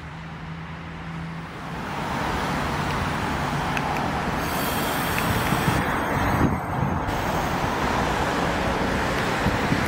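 NSW TrainLink V set double-deck electric intercity train pulling slowly into the platform and braking to a stop. The noise grows louder about two seconds in, with a burst of hiss and low knocks around the middle.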